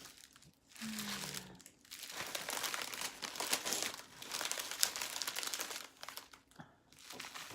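Small plastic bags of diamond painting drills crinkling as they are handled, in three stretches of rustling.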